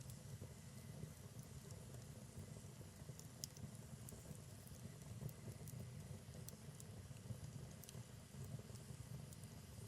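Wood fire burning in a fireplace: a low steady rumble of flames with scattered sharp crackles and pops from the logs.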